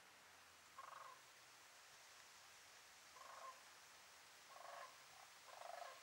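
Faint calls of a bird outdoors: four short calls spaced a second or two apart, over a steady soft hiss.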